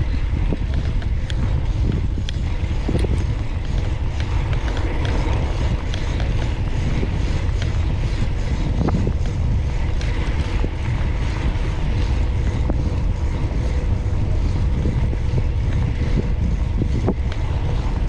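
Wind rushing over the microphone of a rider moving on a bicycle, a steady low rumble with no let-up.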